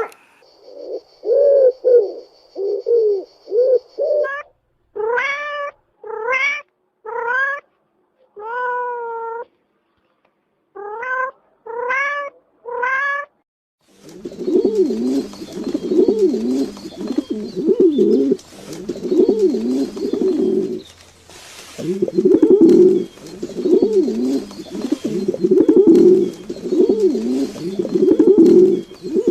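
A cat meowing in a series of short calls, each rising in pitch. About halfway through, pigeons start cooing in a steady run of low, repeated coos.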